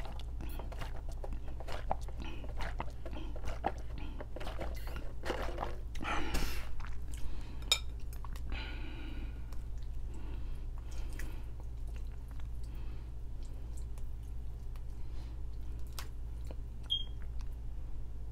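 Close-up chewing and mouth noises of someone eating a noodle boil, with short clicks of a metal fork in a glass bowl, over a steady low hum.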